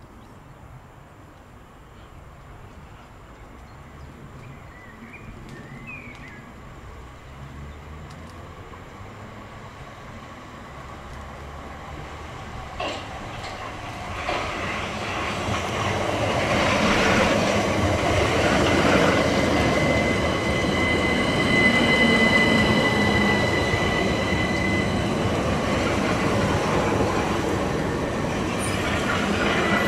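An electric multiple-unit passenger train approaching, its noise building steadily over about fifteen seconds and then staying loud with a rumble of wheels on rail. A steady high whine rises over this and holds for several seconds.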